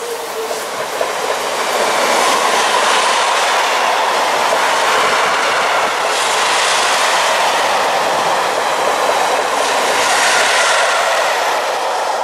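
Freight train of hooded steel-coil wagons rolling past at speed: a steady rush of wheels on rail with clickety-clack from the wheelsets.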